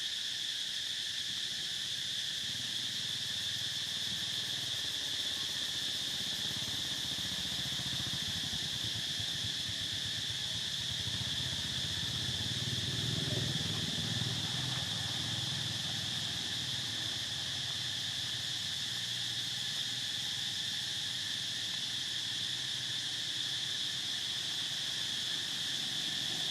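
Steady insect chorus, a continuous high-pitched drone that doesn't change, with a faint low rumble swelling and fading around the middle.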